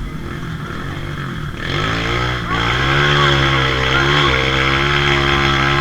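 Off-road trail motorcycle engine revving up about one and a half seconds in, then held steady at high revs.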